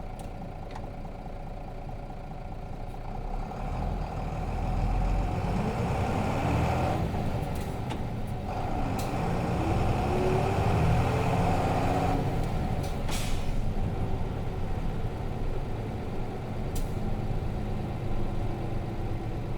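Nissan Diesel RM bus's FE6 inline-six diesel engine, heard from inside the bus, idling and then pulling away about three and a half seconds in. The engine note rises, drops out briefly for gear changes of the five-speed manual twice, then settles into steady running.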